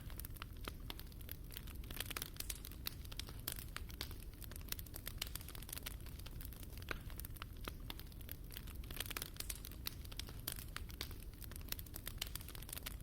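Wood fire burning in a fireplace, crackling with many irregular sharp pops over a low steady rumble.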